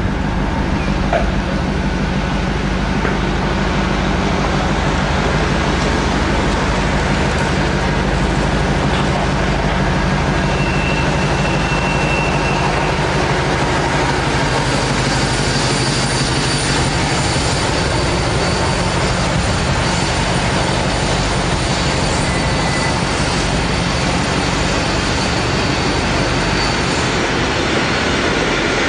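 Diesel locomotive running as it hauls a freight train past, giving way to the steady rumble and clatter of freight wagons rolling by on the rails. Thin high tones ride above the rolling noise in the second half.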